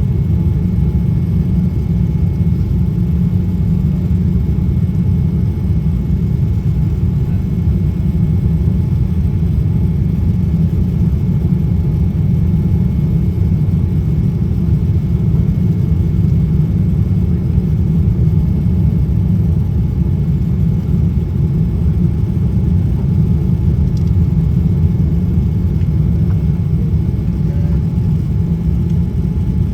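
Steady low cabin rumble of a Boeing 787 airliner in flight, engine and airflow noise heard from inside the cabin, with a faint steady whine above it.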